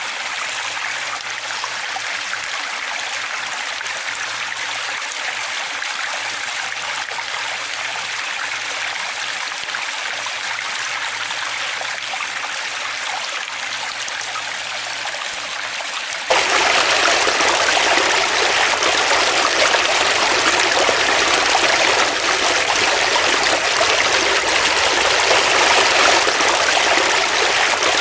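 Flowing stream water rushing and trickling steadily. About 16 seconds in it switches abruptly to a louder, fuller rush of water.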